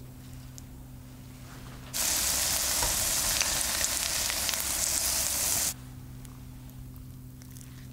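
Zucchini, potato and carrot fritters sizzling in hot vegetable oil in a frying pan. The sizzle starts abruptly about two seconds in and cuts off suddenly about four seconds later. Before and after it there is only a faint steady low hum with a few light clicks.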